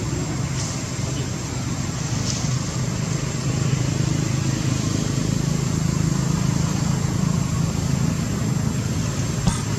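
A motor vehicle's engine running steadily, a low hum that swells a little midway, with one sharp click near the end.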